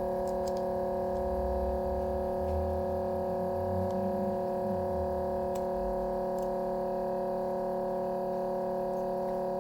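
A steady, unchanging hum made of several held tones, with a soft low rumble in the first few seconds and a couple of faint clicks about six seconds in.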